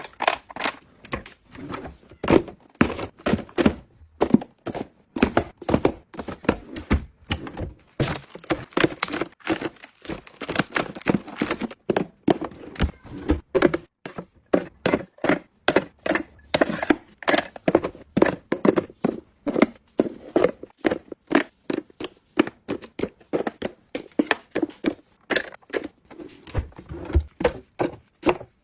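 A fast, irregular run of sharp knocks and taps, several a second, going on without a break.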